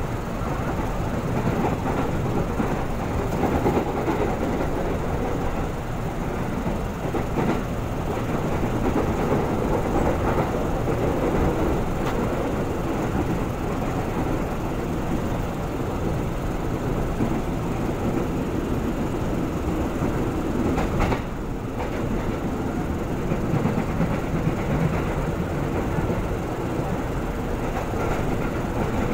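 Ex-JR 205 series electric commuter train running at speed, heard from inside the carriage: a steady rumble of wheels on rails with a light clatter over the rail joints.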